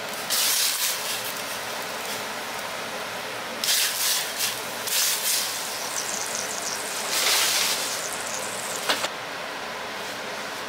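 Salted water boiling in a small pan, a steady bubbling hiss, with several brief splashes as cubes of tofu are tipped in from the tray, and a sharp click near the end.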